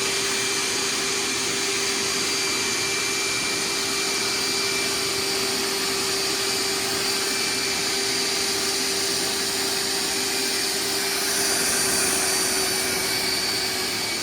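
Hoover wet/dry vacuum running continuously in wet pickup, drawing water out of a saturated carpet: a steady motor whine with an even airy rush, a little brighter near the end.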